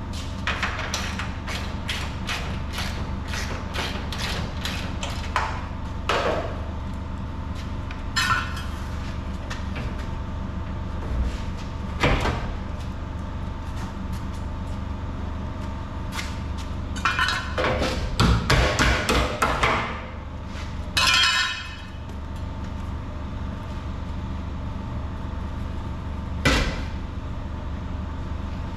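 A hand ratchet wrench clicking at about three clicks a second as a bolt is run down, then scattered metal clanks and knocks of tools and parts, loudest in a cluster about two-thirds of the way through. A steady low hum runs underneath.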